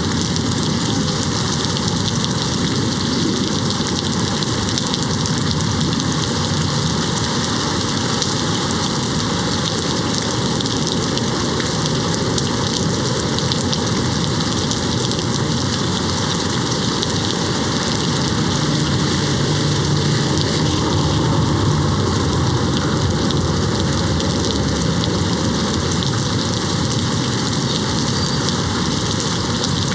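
Steady rain hitting a window pane, an even unbroken hiss of drops.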